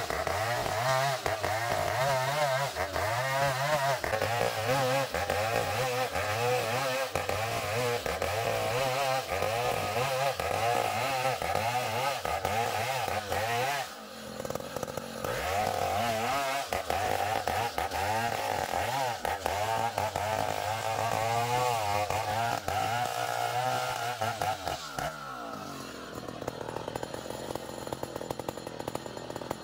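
Two-stroke chainsaw cutting a long ironwood (ulin) log, its engine pitch wavering as the chain bogs and frees in the cut. The saw drops out for a moment about halfway, picks back up, and a few seconds before the end falls away to a lower, quieter running sound.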